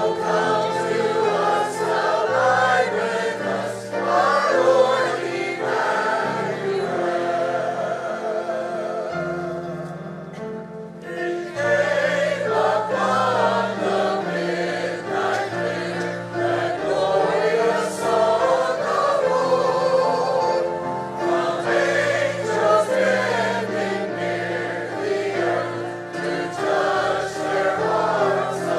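Congregation singing a Christmas carol hymn together with instrumental accompaniment holding steady notes; a short break between verses about ten seconds in.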